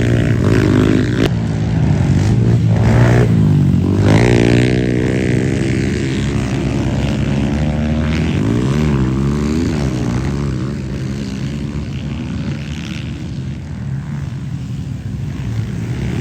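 Motorcycle engines revving on a dirt track, their pitch rising and falling again and again as the throttle opens and closes, loudest in the first half and easing off later.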